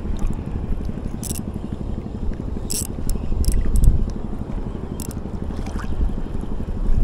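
Fishing rod and reel being handled: scattered sharp clicks and scrapes over a steady low rumble of wind on the microphone.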